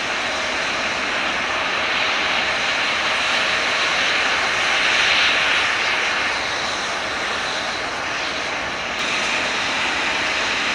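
Eurofighter Typhoon jet engine noise, a steady rushing whine that swells slightly midway and shifts abruptly near the end.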